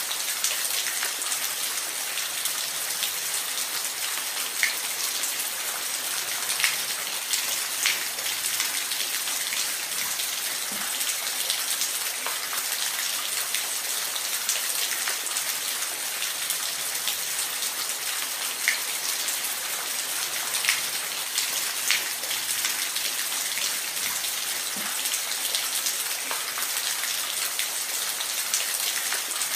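Steady rain falling in a forest, a continuous hiss with individual drops ticking now and then.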